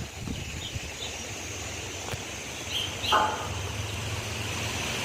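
A steady low engine hum with short, high bird chirps over it, and one louder bird call about three seconds in.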